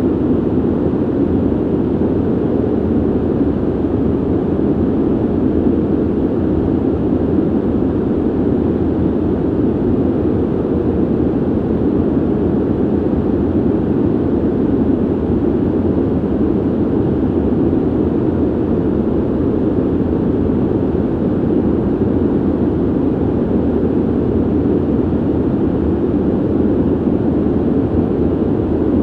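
Steady ventilation noise: an even, deep rush of air with most of its weight low down and little hiss on top, unchanging throughout.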